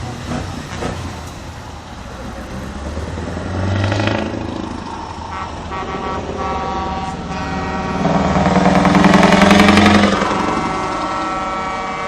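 Trucks passing in a parade with engines running. From about halfway through, truck horns sound in long held tones that overlap, loudest a little before the end as a truck passes close.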